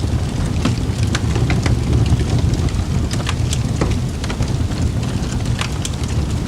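Wood fire in a fireplace crackling: irregular sharp pops and snaps, several a second, over a steady low rush of flame.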